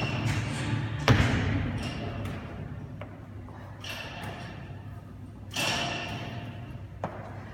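A sharp thud about a second in, then a fainter knock near the end: equipment striking during a CrossFit workout.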